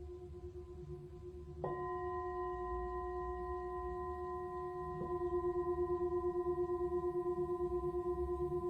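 Singing bowl struck about two seconds in and again near the middle, each time ringing on in a long steady tone with overtones; after the second strike the ring pulses with a regular wavering beat.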